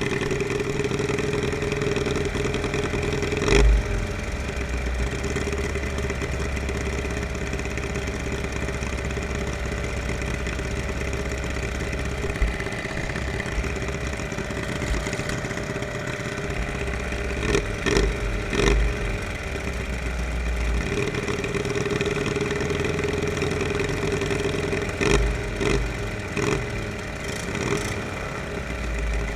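Small riding-lawnmower engines running steadily in a lawnmower derby, with sharp bangs of the mowers hitting each other about 4 s in, twice near the middle, and again near the end.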